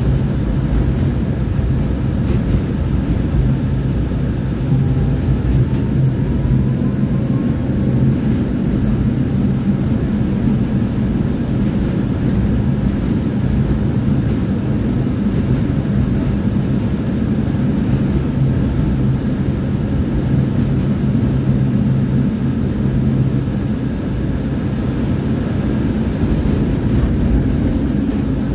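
Tram running along its route: a steady low rumble of wheels on rails with a constant motor hum, and a faint rising whine about seven seconds in.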